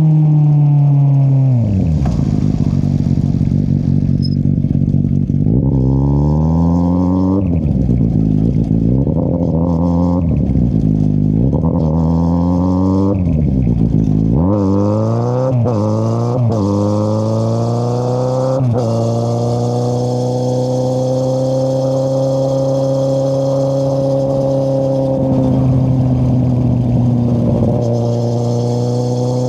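2013 Kawasaki Z800 inline-four with a de-baffled Akrapovic exhaust, no dB killer. The engine slows at first, then revs up and drops back several times in quick succession as the rider accelerates through the gears, and settles into a steady cruise about two-thirds of the way through.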